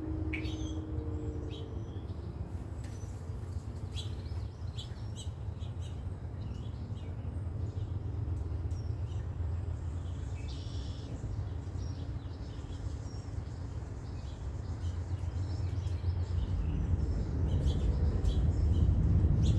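Wild birds chirping in many short calls over a steady low rumble, which grows louder near the end.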